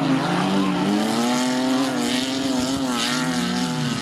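Several banger racing car engines running together, their overlapping pitches rising and falling as the cars rev up and ease off.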